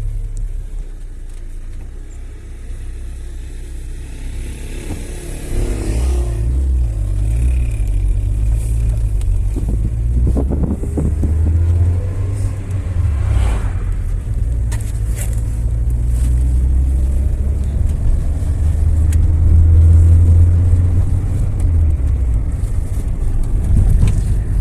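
A motor vehicle's engine running with a steady low rumble, growing louder about five seconds in.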